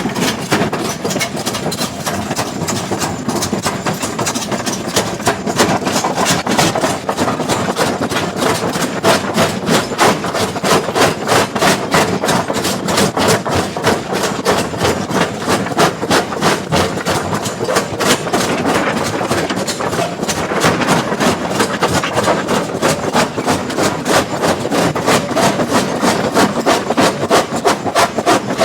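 Excavator-mounted hydraulic rock breaker hammering on stone: rapid, regular blows, a few a second, over the running diesel engine.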